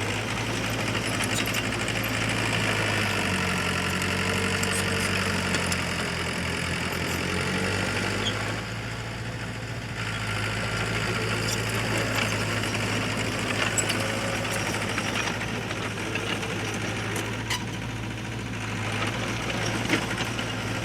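Heavy diesel engine of earth-moving machinery running steadily. A second, deeper engine note joins for a few seconds from about three seconds in.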